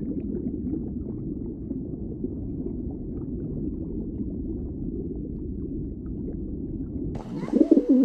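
A low, steady rumble with no clear tone for about seven seconds, then a sudden cut to a domestic pigeon cooing.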